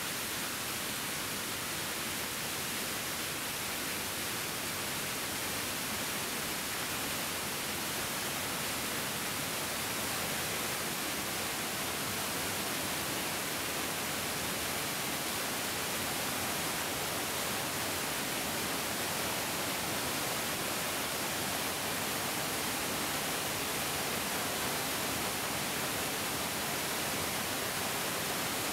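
Bigger mountain stream, water flowing in a steady, even rush with most of its energy in the upper range.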